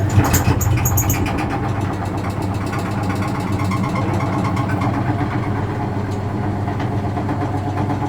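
Vintage Frigidaire Super Deluxe Automatic 50 front-loading washing machine running, its induction motor giving a steady hum with a fast rattle of clicks over it.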